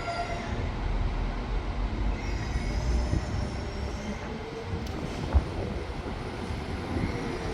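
Transport for Wales Class 197 diesel multiple unit moving slowly through the station with a steady low rumble, faint high wheel squeal from about two seconds in, and a single sharp knock about five seconds in.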